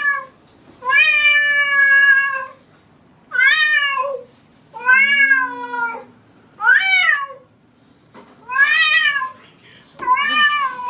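A cat meowing over and over: about six drawn-out meows, each up to a second or so long, with short pauses between them.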